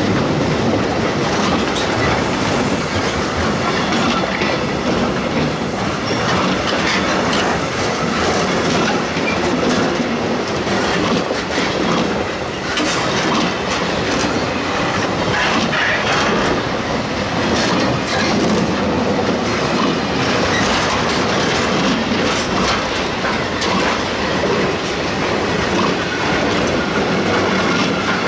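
Loaded container flat wagons of a freight train rolling past close by: a steady, loud rumble of steel wheels on the rails, with clicking and clacking as the wheels cross the track.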